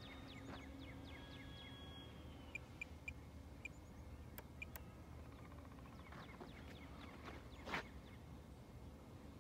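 Small birds chirping faintly in quick, downward-sliding notes over a low steady hum, with a couple of sharp clicks and a brief louder rustle about three-quarters of the way through.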